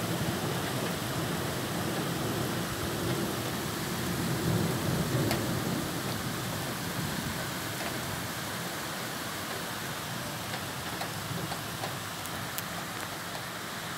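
Heavy downpour: steady rain falling, an even, continuous wash of noise, with a low rumble in the first half that fades out about halfway through.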